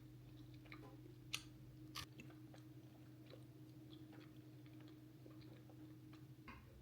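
Quiet room with a low steady hum and scattered faint clicks and taps, two of them sharper about a second and a half and two seconds in.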